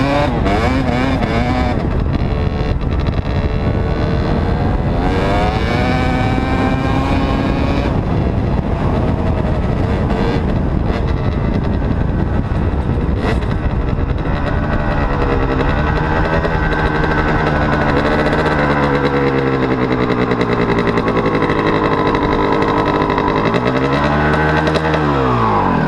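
Dirt bike engine running hard, its pitch repeatedly rising and falling as the revs climb and drop through gear changes, with a last rise and fall in revs near the end.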